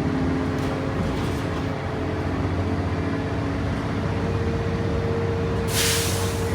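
Bus engine running while under way, heard on board, with a whine that rises slowly in pitch and stops near the end. A short hiss comes just before the end.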